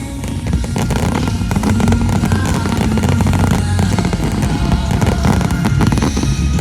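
Aerial fireworks bursting in rapid succession, many booms and crackles overlapping into a continuous rumble, over music with sustained low notes.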